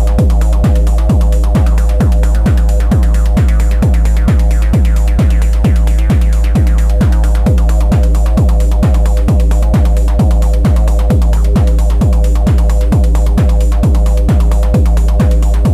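Elektron Analog Rytm drum machine playing a steady techno groove: a kick drum about twice a second, each one dropping in pitch, under a held droning chord and fast ticks up high. A hiss swells and fades again around the middle.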